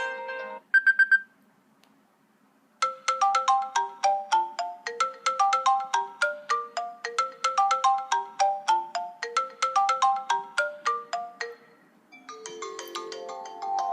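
iPhone ringtones from iOS 7 played in turn. The end of one ringtone is followed by three short high beeps about a second in. After a pause comes a fast repeating melody of short bright notes, about five a second, and near the end another ringtone starts with chiming notes.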